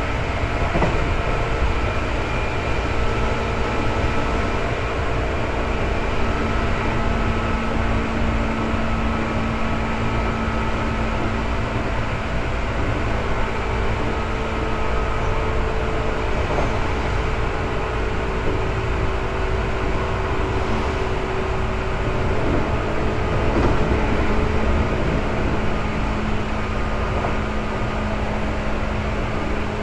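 Seibu 2000 series electric train running at a steady speed: a constant rumble of wheels on rail with a few steady motor hum tones over it.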